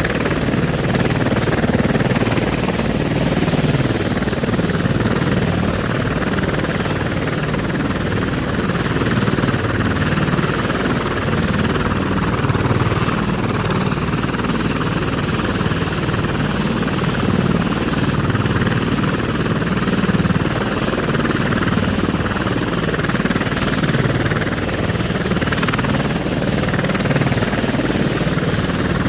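Syma X21W Pro toy quadcopter flying, its small electric motors and propellers buzzing steadily, with a thin, constant high whine on top.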